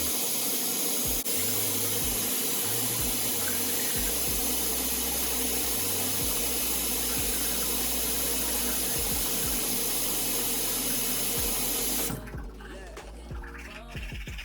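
Tap water running hard and steadily, then shut off suddenly about twelve seconds in. The bass line of a song plays underneath.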